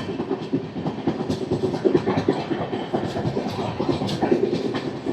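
Moving passenger express train, heard from on board: a steady run of wheels clattering over the rails.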